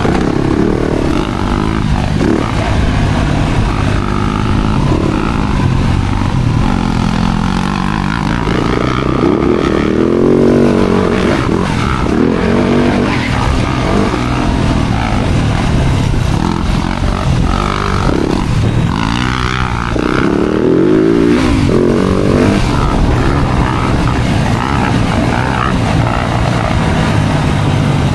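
Yamaha YZ-F four-stroke motocross engine revving hard, its pitch repeatedly climbing and dropping as the bike accelerates and backs off.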